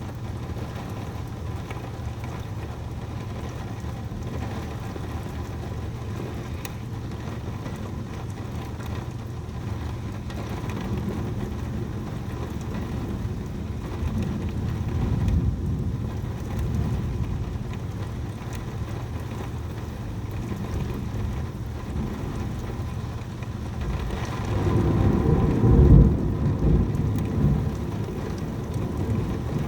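Heavy rain falling steadily, with thunder rumbling. A low roll swells midway, and a louder, deeper rumble builds late on before easing.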